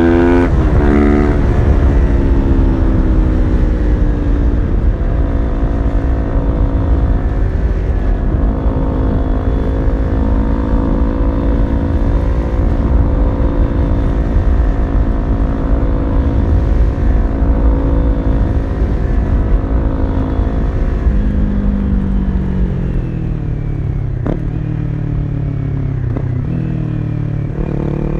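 Kawasaki Ninja 400 parallel-twin engine through a full aftermarket exhaust, ridden under way. Right at the start it revs up and shifts gear, then it holds high revs steadily for about twenty seconds. From about 21 s the revs fall away as the bike slows, and it settles at a lower, steady pitch near the end.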